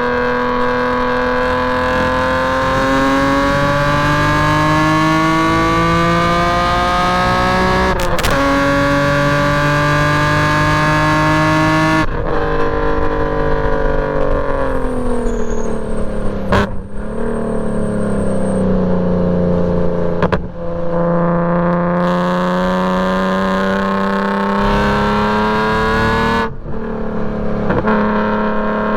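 BMW E46 M3's 3.2-litre straight-six at speed on track. Its revs climb steadily, broken by several quick gear shifts, and fall for a few seconds around the middle as the car slows before pulling again.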